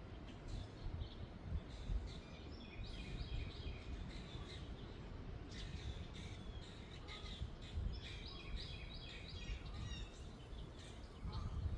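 Several small birds chirping and singing in quick runs of repeated high notes, over a gusty low rumble of wind on the microphone.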